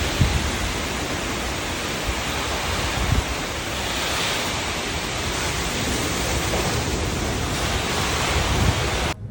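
Hurricane wind blowing hard as a dense, steady rush of noise, with gusts buffeting the microphone in low thumps. It cuts off suddenly near the end.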